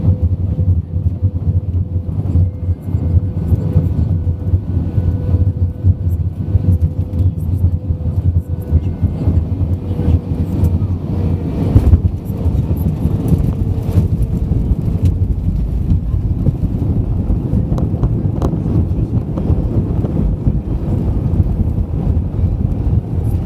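Steady low vehicle rumble with a faint steady whine running through it and occasional light knocks.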